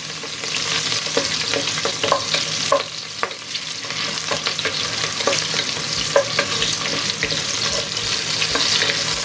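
Curry leaves and green chillies sizzling in hot coconut oil with spluttered mustard seeds, stirred in the pan, with a steady hiss and scattered light clicks.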